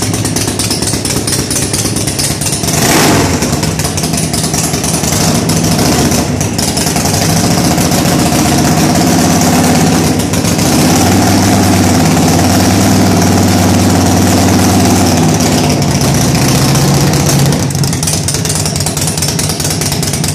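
Ultima 113 cubic inch V-twin motorcycle engine running on its first start-up, loud, idling with the throttle worked up and down and a quick rev about three seconds in.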